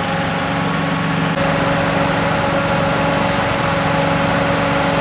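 An engine running steadily at idle, a constant droning hum with a slight shift in its tone about a second and a half in.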